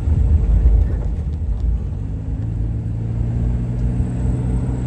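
Low rumble of a car driving, heard from inside the cabin; about two seconds in a steady engine hum sets in beneath the road noise.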